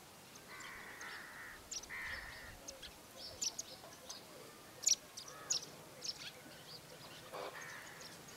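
Wild birds calling: three longer, harsh calls, one near the start, one about two seconds in and one near the end, with a scatter of short, sharp, high chirps in between.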